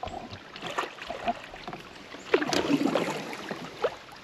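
Canoe paddle strokes in lake water: small drips and clicks, with one louder swish of the blade through the water about two and a half seconds in.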